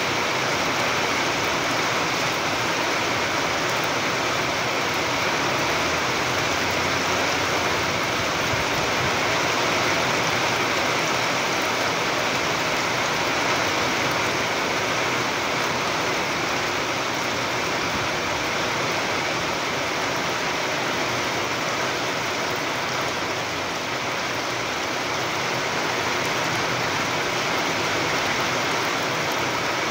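Heavy rain pouring steadily, an even hiss that does not let up.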